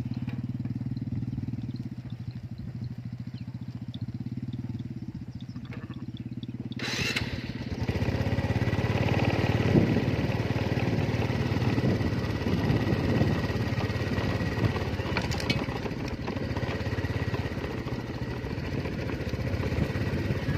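A small engine running steadily, growing louder and rougher about seven seconds in.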